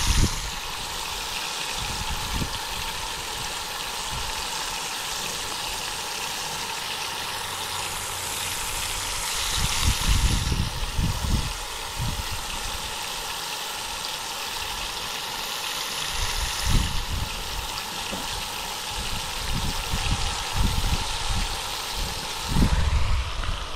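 Catfish fillets sizzling in hot olive oil in a pan, a steady hiss, with wind gusting on the microphone now and then.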